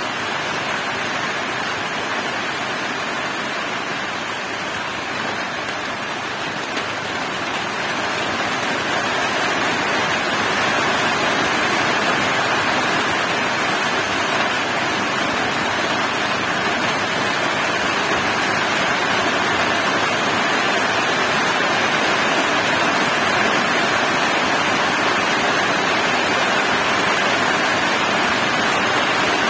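Heavy rain pouring steadily, growing a little louder about eight seconds in.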